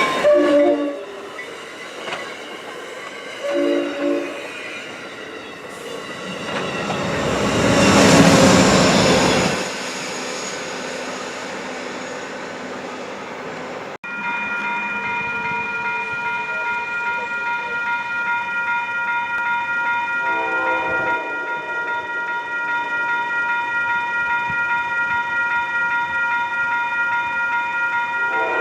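Passenger train on the Haverhill Line sounding a short horn note, then passing with a swell of wheel and rail noise that peaks about eight seconds in and fades. After a sudden cut, a steady high ringing continues, with faint horn notes twice.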